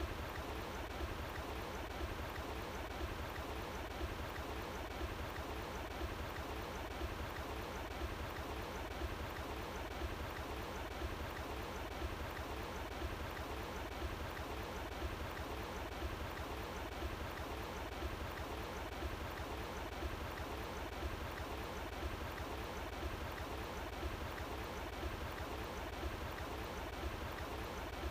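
Running water flowing steadily and without a break, with a low rumble underneath.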